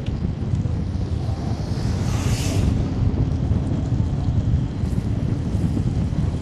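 Wind buffeting the microphone of a moving camera, a steady low rumble. About two seconds in, a brief hiss swells and fades.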